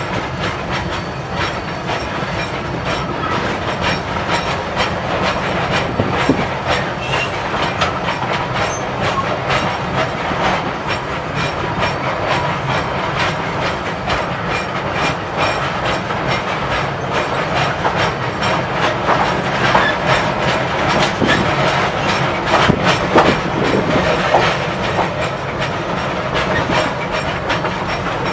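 Narrow-gauge passenger train cars rolling slowly past, their wheels clicking steadily over the rail joints.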